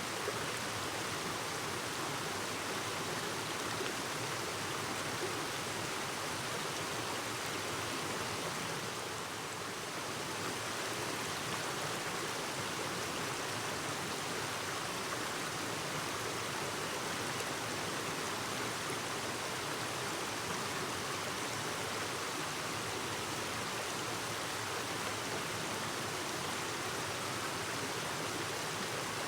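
Clear mountain stream babbling steadily over rocks.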